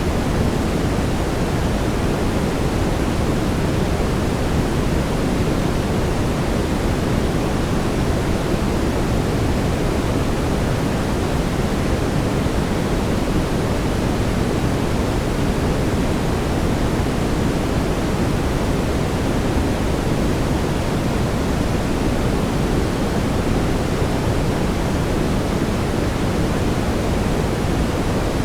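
Brown noise: a steady, even rush weighted heavily toward the low end, like a deep rumbling hiss, with no change in level.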